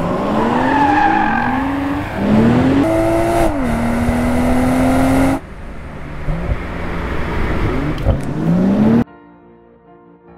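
BMW M240i's turbocharged 3.0-litre straight-six accelerating hard, its revs climbing and dropping through quick upshifts, with tyre squeal in the first second or so. After a cut the engine revs up once more, then gives way to soft music about nine seconds in.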